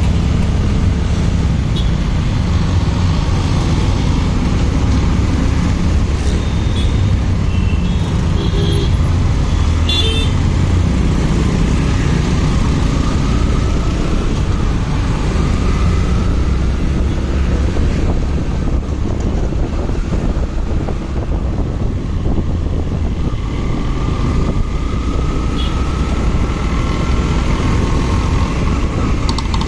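Motorcycle riding in road traffic: steady engine and road noise, with a few short higher-pitched tones about a third of the way in and a faint rising whine twice in the second half.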